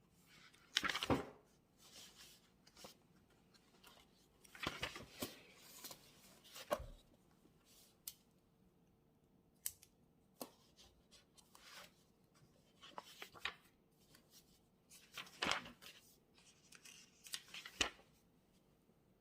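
Irregular rustling and clicking of things being handled on a desk, in scattered bunches of a second or so, over a faint steady hum.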